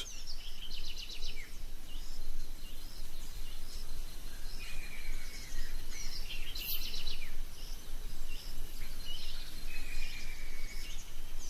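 Forest ambience full of birdsong: several birds calling with short high chirps, rapid trills and downward-sliding whistles, over a steady low background hum. One brief, louder buzzy call comes about seven seconds in.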